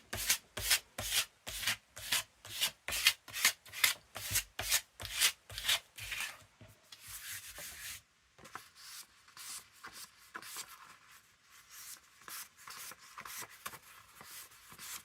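Sheets of paper being rubbed and handled: quick, regular strokes, about two a second, for roughly the first six seconds, then fainter, uneven rustling.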